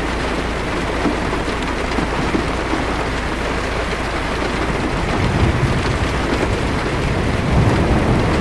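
Heavy rain on a car's roof and windshield, heard from inside the car as a steady, dense hiss. About five seconds in, a low rumble of distant thunder builds beneath it.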